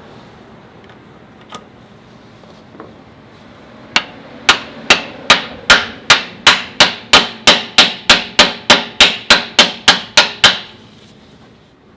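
A hammer striking metal in a rapid run of about twenty blows, about three a second and quickening slightly, each ringing briefly.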